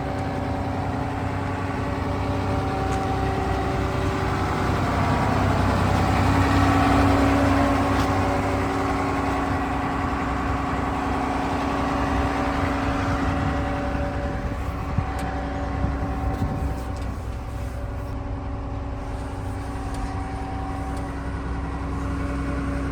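Caterpillar M322C wheeled material handler running, its diesel engine rumbling steadily under several whining tones; it grows louder a few seconds in, then settles back to a steady run.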